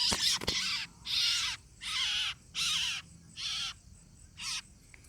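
A freshly caught quail giving harsh, raspy distress squawks while held, about six calls in a row that grow shorter and fainter toward the end. A couple of handling clicks come near the start.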